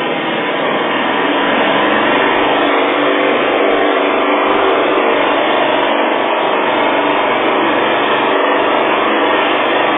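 Car engine being revved hard while still cold from a cold start. It is loud and close, rising a little about a second in and then holding steady.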